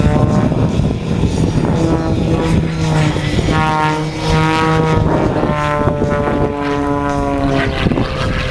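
Propeller airplane engine running loud, its pitch rising and falling several times as the plane flies and manoeuvres overhead.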